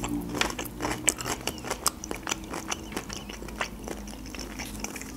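A person chewing food with the mouth closed, close to the microphone: a run of soft wet mouth clicks, thick in the first two seconds and sparser after.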